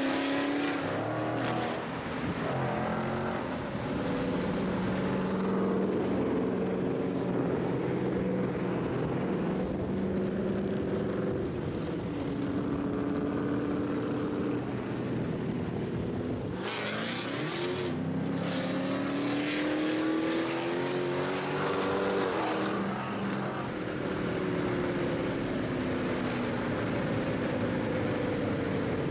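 Car engines running and revving as they drive, their pitch rising and falling with throttle and gear changes. A brief rushing noise covers everything for a couple of seconds about halfway through.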